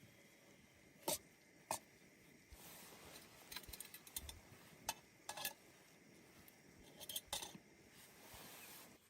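A few sharp clicks and light knocks of small objects being handled, some in quick pairs, with soft rustling in between.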